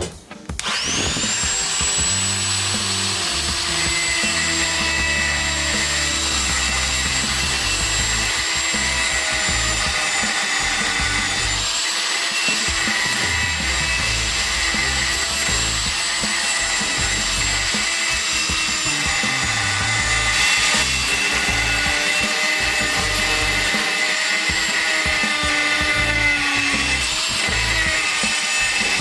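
Electric power tool's motor spinning up about half a second in and then running steadily at full speed, with a steady high whine.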